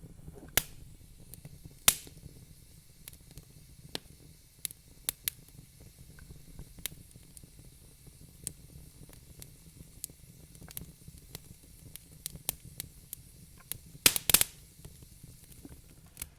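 Wood fire crackling in a fireplace: irregular sharp pops and snaps over a low steady hiss, with a louder pop about two seconds in and a quick cluster of loud snaps near the end.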